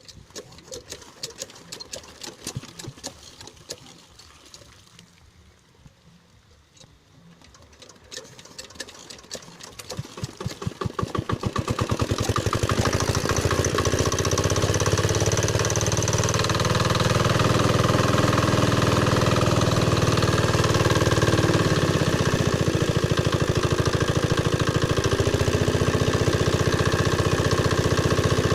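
Chinese single-cylinder diesel irrigation pump engine being started: irregular ticks at first, then a rhythm that quickens over a few seconds until the engine catches about twelve seconds in. It then runs steadily and loudly, its pitch shifting briefly as it settles.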